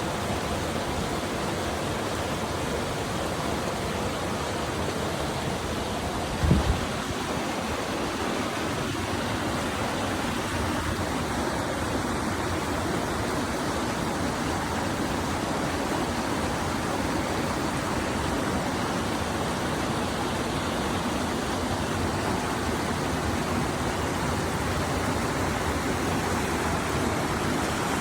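Waterfall: falling water making a steady, even rush. A brief low thump about six seconds in stands out above it.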